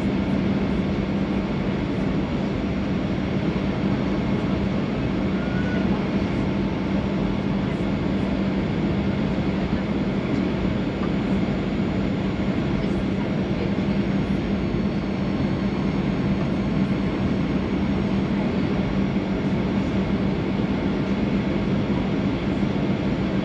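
Steady cabin noise inside a Boeing 737-800 with its engines running, with a constant low hum.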